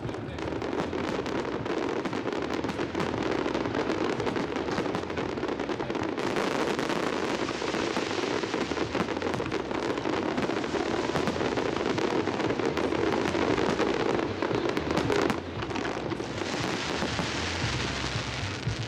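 Aerial fireworks show: a dense, continuous crackling of many bursts, with a slight lull about three-quarters of the way through.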